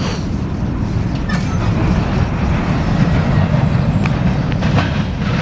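A steady low rumble of heavy traffic, with scattered clicks and rattles: a freight train of covered hoppers rolling away and road vehicles at the grade crossing.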